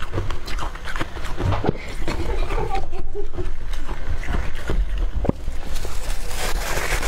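Dry, squeaky freezer frost chunks crunching, a dense run of sharp crackles and squeaks as the frost is handled and bitten close to the microphone.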